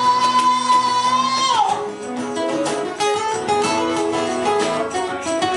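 Live band music: a long held high note that slides down about two seconds in, then guitar-led instrumental playing.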